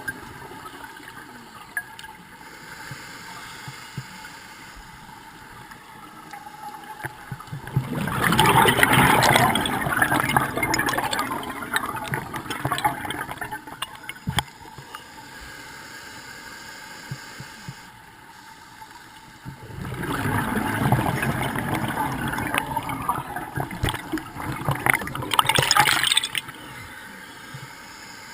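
Scuba regulator exhaust bubbles underwater: a diver breathes out twice, each exhalation a bubbling, gurgling rush lasting several seconds, with a quieter steady hiss between breaths.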